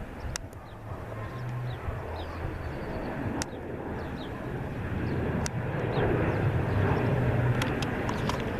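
Airplane engines rumbling and growing steadily louder as the aircraft draws near, with a few sharp clicks over it.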